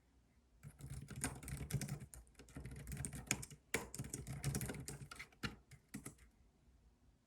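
Typing on a computer keyboard: a quick run of key clicks, with a short pause about halfway through, stopping about a second before the end.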